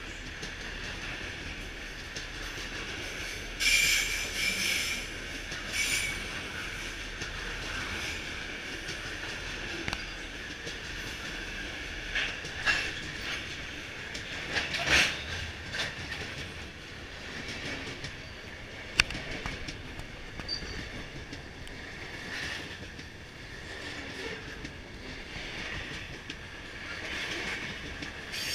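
Freight train wagons rolling past close by, steel wheels on the rails with a steady rumble and a high squeal that flares up in short bursts several times. A single sharp metallic click stands out about two-thirds of the way through.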